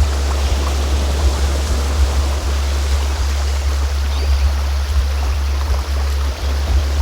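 A continuous low sound-healing frequency tone, the loudest sound here, played under a recording of a flowing stream. A faint bird-like chirp comes about four seconds in.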